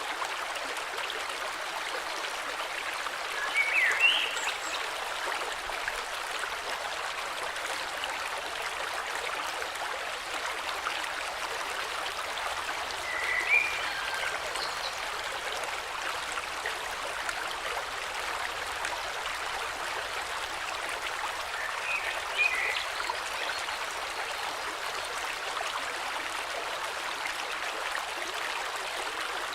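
Steady rush of a flowing river, with a bird giving a short chirp three times, about nine seconds apart.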